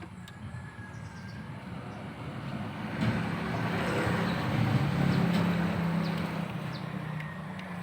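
A motor vehicle engine running nearby, growing louder over the first few seconds and then holding a steady low hum. Birds chirp briefly in the background.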